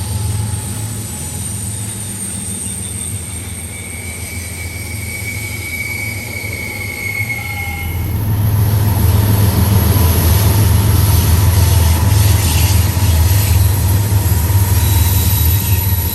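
Train running on the rails, with a steady high-pitched wheel squeal in the first half and a heavy low rumble that grows louder about halfway through.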